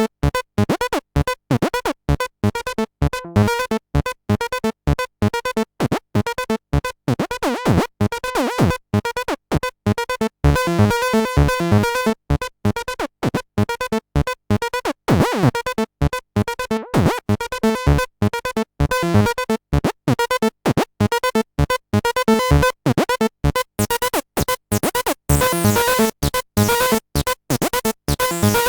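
Behringer TD-3-MO, a 303-style bass synthesizer, playing a fast repeating step-sequenced pattern of short, staccato notes with brief silences between them. The sound grows brighter and buzzier in the last few seconds as the filter opens up under modulation.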